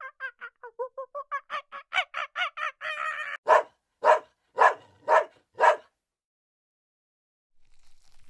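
Animal calls: a fast run of short pitched calls, about five a second, then five louder calls about half a second apart, stopping about six seconds in.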